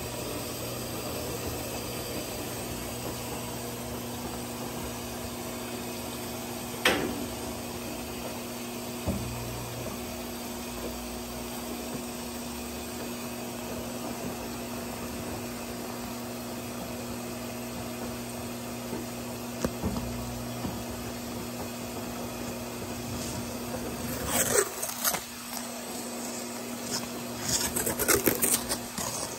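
Brastemp 17 kg washing machine running with a steady hum during the start of its cycle. A single sharp click comes about seven seconds in, and a few short bursts of clattering come near the end.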